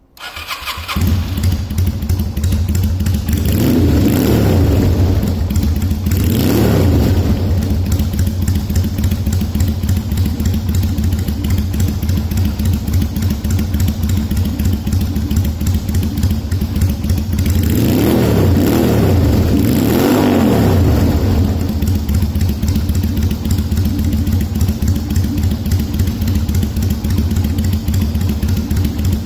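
Patagonian 250 V-twin motorcycle engine starting and catching within about a second, then idling steadily. The throttle is blipped twice around four to seven seconds in and twice more around eighteen to twenty-one seconds in, each rev rising and falling back to idle.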